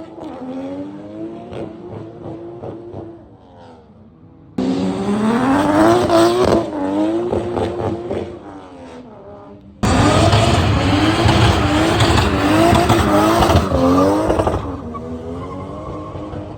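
Car engines revving in short back-to-back clips, the engine pitch rising and dropping again and again. The sound changes abruptly three times as one clip gives way to the next.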